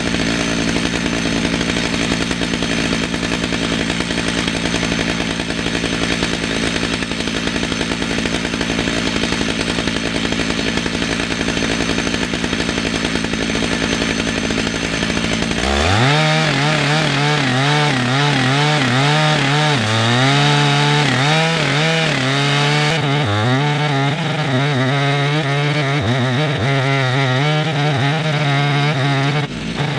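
Chainsaw ripping lengthwise through a red oak log in a chainsaw mill, running steadily under load. About halfway through the sound changes abruptly to an engine whose pitch rises and falls unevenly.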